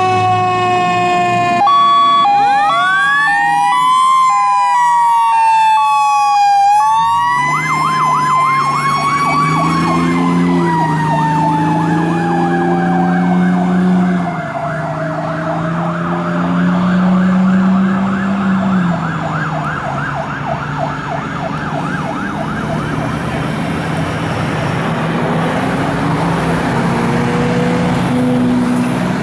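1993 KME fire engine's sirens on an emergency run. A steady two-tone alternation gives way about two seconds in to a siren that spins up in pitch and then slowly winds down. A fast warbling yelp runs from about eight seconds to twenty seconds, over the truck's engine as it pulls away.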